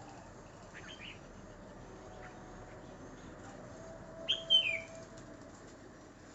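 Small bird chirping: a few faint short chirps about a second in, then one louder call that slides down in pitch just past the middle.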